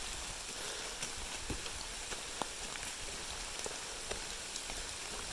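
Rain falling, with individual drops tapping irregularly over a steady hiss.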